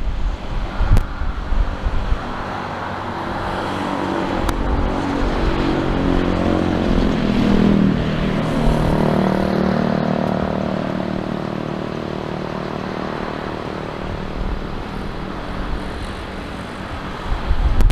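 Jet airliner passing by on the runway: its engine sound swells to a peak about eight seconds in and then fades, the engine tone dropping in pitch as it goes past. Wind buffets the microphone near the start and end.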